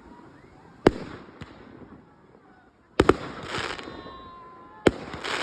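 Fireworks display: aerial shells bursting in sharp bangs, one about a second in with a smaller one just after, a quick pair around three seconds, and two more near the end, the bigger bursts trailed by a short spell of crackle.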